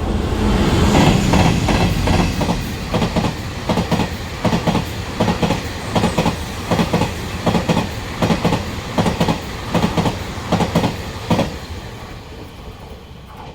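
A train passes close by. A heavy rumble swells, then its wheels clack rhythmically over the rail joints for several seconds before the sound fades away near the end.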